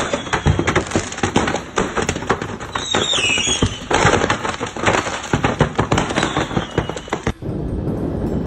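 Fireworks going off in rapid, crackling bursts of many bangs a second, with a short falling whistle about three seconds in. The crackling cuts off suddenly about seven seconds in, giving way to a steady low noise.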